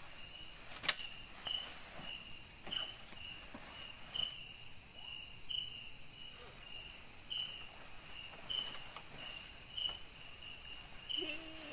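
Insects calling in a forest: a steady high-pitched buzz with a short chirp repeating about one and a half times a second. A single sharp click about a second in.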